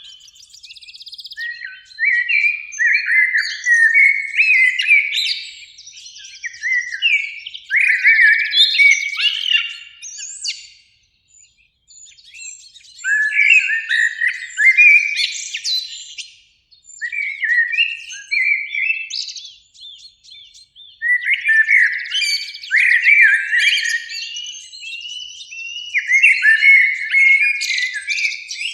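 Eurasian blackbirds singing, phrase after phrase, with short pauses between phrases.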